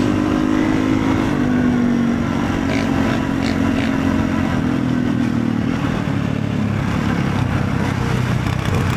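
Motorcycle engine running on the move at a steady pitch that eases lower about six seconds in, over a steady rushing noise.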